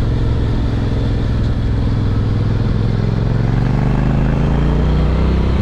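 Honda NC750X's parallel-twin engine running under way, its note climbing steadily through the second half as the motorcycle accelerates, over a steady rush of wind noise.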